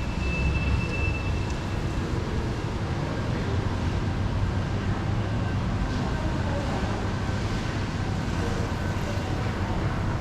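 Steady city street traffic: a continuous low rumble of passing vehicles, with a brief faint high tone near the start.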